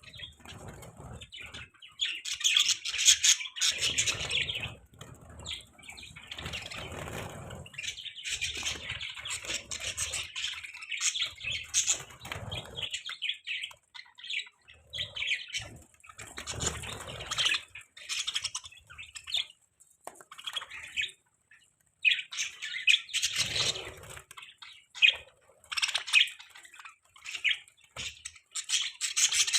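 Budgerigars chirping and warbling in irregular bursts, with a few short pauses, and wing flapping at times.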